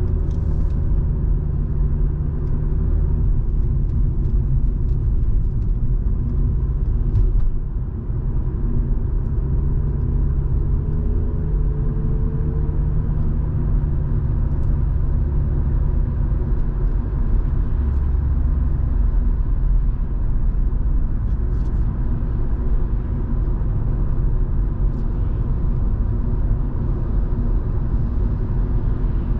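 Volvo V70 2.5T's turbocharged inline-five engine and tyre rumble while driving, steady, with the engine note rising slightly about ten seconds in.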